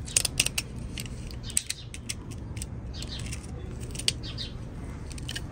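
Small birds chirping in quick short notes, with a few sharp clicks among them, over a low steady hum.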